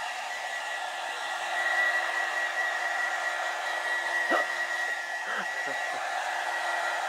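Handheld hair dryer running steadily: an even rush of air with a high steady whine from its motor.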